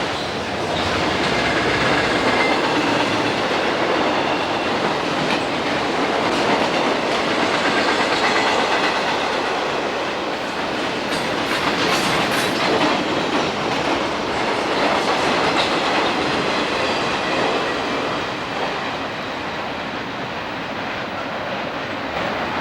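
Railroad train rolling past, its wheels clicking over the rail joints, easing off slightly near the end.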